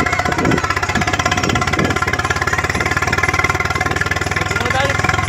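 Tractor engine running steadily, with a fast, even beat of firing pulses.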